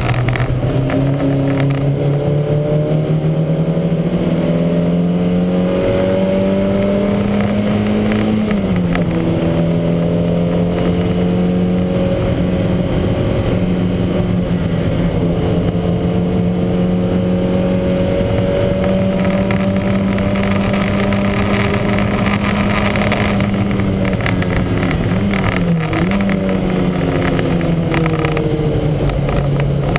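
Lancia Montecarlo's mid-mounted four-cylinder engine at racing speed, its pitch climbing slowly under load over long stretches and dropping sharply twice, about a third of the way in and again near the end. The car is running with what the driver calls a huge misfire.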